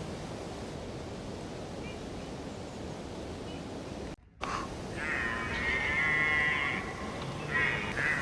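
Steady outdoor background noise, then after a sudden cut an animal calls loudly twice, each call a drawn-out, wavering pitched cry.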